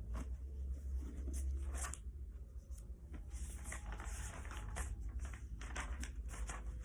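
Scattered rustling and clicking handling noises over a steady low hum.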